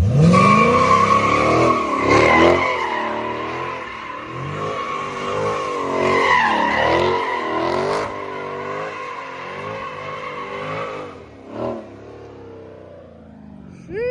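A car doing a burnout: the engine revs up hard and holds at high revs with a wavering pitch while the rear tires squeal steadily. About eleven seconds in the squeal and revving stop.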